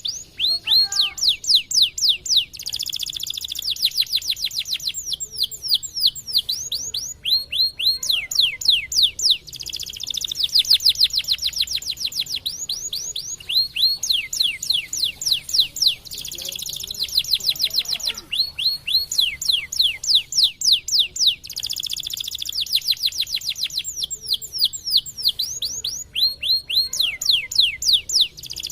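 Domestic canary singing a long, continuous song of rapid trills: fast runs of repeated downward-sweeping high notes, phrase after phrase with only brief breaks.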